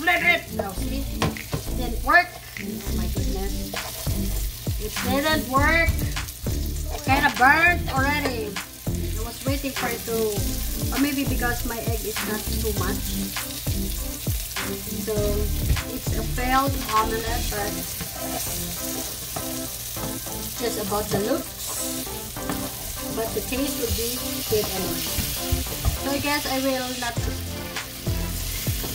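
Eggplant omelet frying and sizzling in a nonstick pan, with a plastic spatula scraping, chopping and knocking against the pan as the omelet is folded and broken up.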